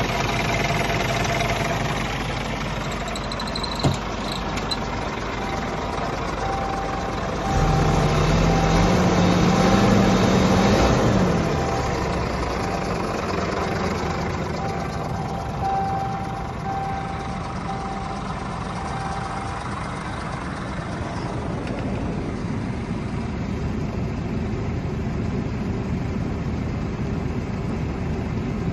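Scania R450 truck's 13-litre straight-six diesel idling. It is revved once about eight seconds in, the pitch climbing for a few seconds, then dropping back to idle.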